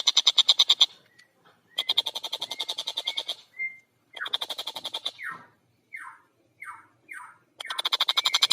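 Tengkek buto kingfisher giving rapid chattering call series. These are bouts of fast, evenly repeated harsh notes, about a dozen a second, separated by short gaps. Between about five and seven seconds in, a few single short falling notes break up the series before a long rapid bout starts again near the end.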